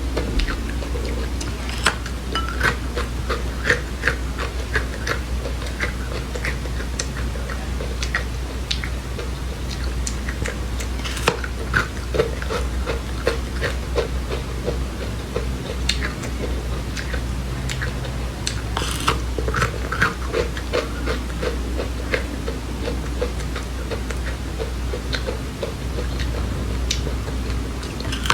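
A person chewing seeds close to the microphone: many small crunches and mouth clicks, a few each second and irregular, over a steady low hum.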